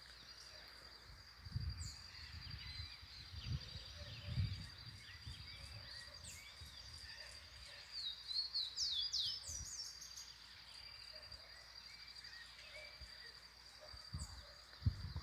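Wild birds chirping and singing in short sweeping notes, with a quick run of calls about eight to nine seconds in, over a steady high-pitched whine. A few low thumps come in the first half.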